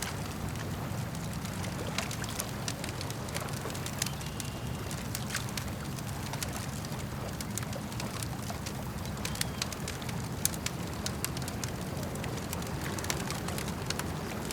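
Campfire crackling, with frequent sharp snaps and pops and one louder pop about ten seconds in, over a steady low rumble of lake water lapping.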